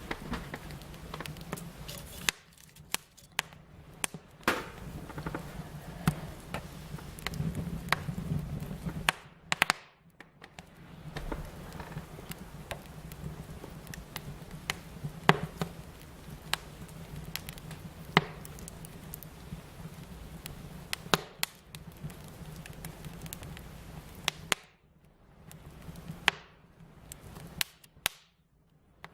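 Fire crackling: frequent sharp pops and snaps, some much louder than others, over a low steady rush. The sound drops away briefly a few times.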